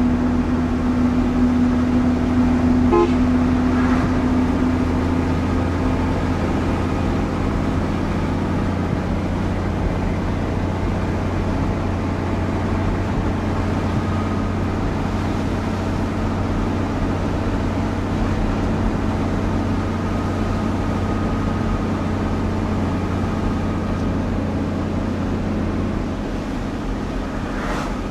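Heavy truck engine running steadily while driving, with road noise. There is a short high tone about three seconds in.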